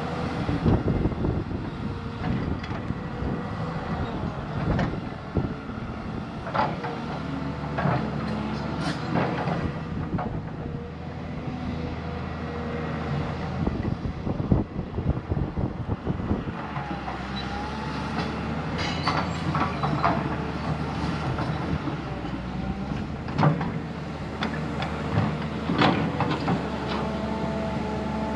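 Diesel engine of heavy earthmoving machinery running under load. Its note shifts a few times, and repeated metallic clanks and knocks are heard throughout.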